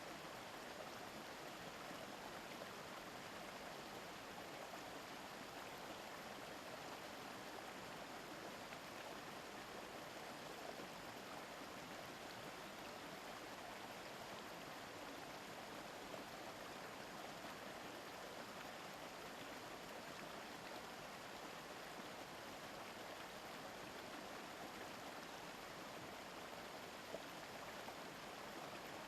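A shallow mountain river babbling steadily over stones, an even rush of flowing water.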